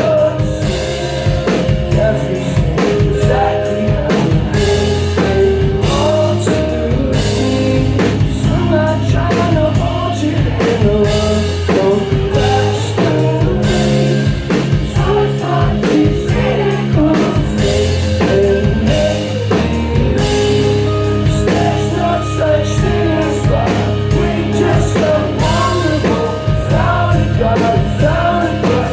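Rock band playing live: loud sung vocals over electric guitars, bass and a drum kit, continuous throughout.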